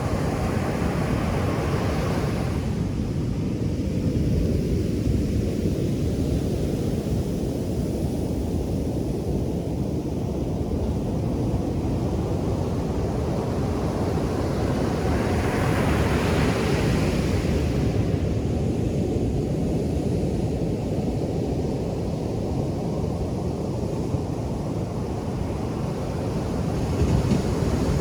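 Ocean surf on a beach: a steady low rumble of breaking waves, with a wave washing in and hissing at the start, again about halfway, and once more near the end.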